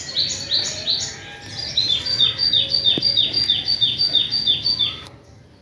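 A small bird calling outdoors: a quick run of short, high, falling notes, about three a second. There are two runs, with a pause of about a second between them; the second run is the longer.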